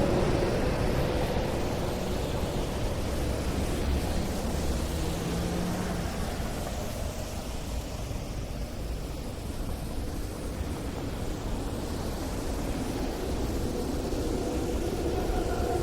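City street traffic: a passing vehicle fades away over the first few seconds, leaving a quieter lull of low traffic rumble, then another vehicle approaches and grows louder near the end.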